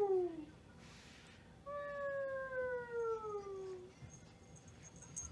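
A strange wailing sound used to get a puppy's attention: a meow-like tone sliding down in pitch that ends about half a second in, then a longer one of about two seconds that also slides downward.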